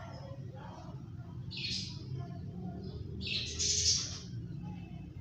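Indian ringneck parrot making two short, breathy hiss-like sounds, one about a second and a half in and a longer one about three seconds in, over a steady low hum.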